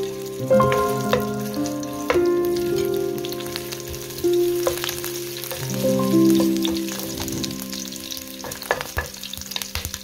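Ginger slices sizzling in hot oil in a wok, stirred with a wooden spatula that clicks against the pan now and then, under soft background music with held notes.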